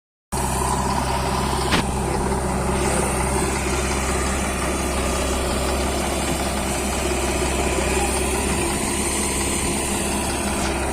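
Diesel engine idling steadily, with one sharp click about two seconds in.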